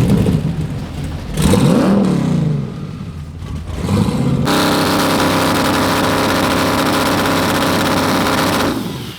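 Car engine revved once, rising and falling in pitch, then held at a steady raised speed for about four seconds before dropping off near the end.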